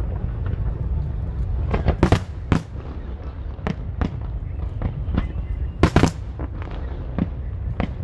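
Aerial fireworks bursting in a string of sharp bangs and pops over a steady low rumble. The loudest bangs come about two seconds in and as a close pair near six seconds.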